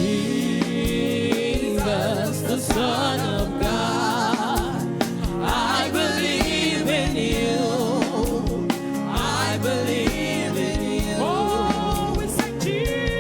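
Live gospel worship music: voices singing wavering, held melody lines over instrumental accompaniment with a regular beat.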